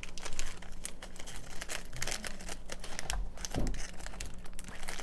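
Rapid, irregular crackling and clicking of plastic snack wrappers being handled.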